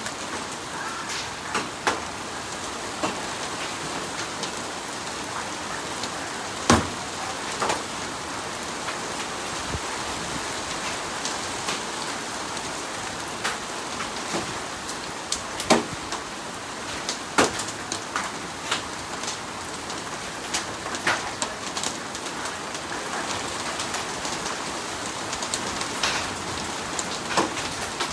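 Steady rain falling, with scattered sharp taps of drops striking a hard surface at uneven intervals.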